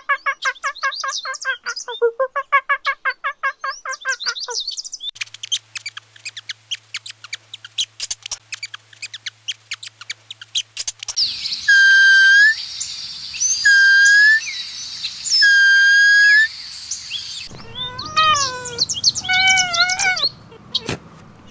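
A run of different bird calls, one after another: a rapid trill, then a stretch of quick clicking chirps, then three loud, long calls, and near the end a few calls that fall in pitch.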